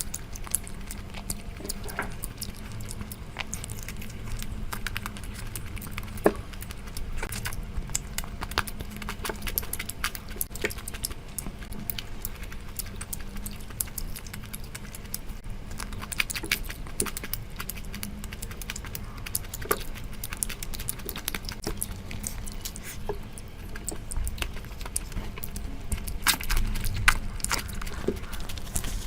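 Close-miked eating of curry: wet chewing and mouth smacks with irregular small clicks and squelches, over a steady low hum.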